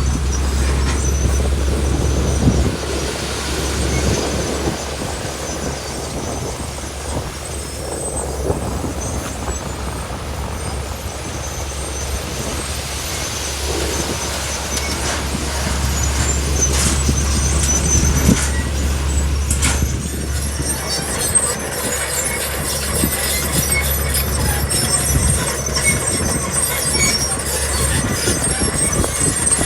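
Heavy earthmoving machinery working gravel: a diesel engine's steady low rumble, with high metallic squealing and a few sharp clanks. The squealing grows stronger in the second half.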